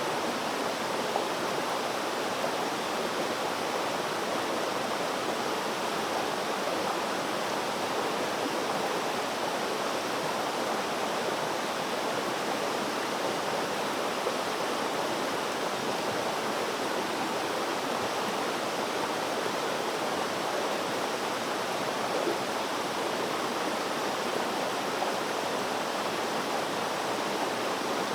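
Water flowing steadily in a stream, an even rushing noise without breaks.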